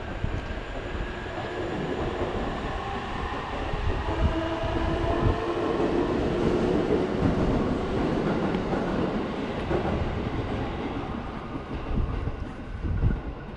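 Electric train on the JR Jōban Line moving through the station alongside the road: a steady rumble with a whining motor tone that grows about four seconds in and fades away by about ten seconds.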